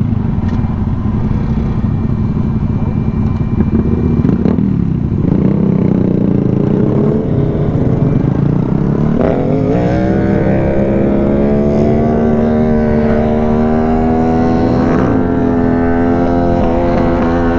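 Small-displacement minibike engine running. Its pitch climbs about nine seconds in as it speeds up, then holds steady at the higher note.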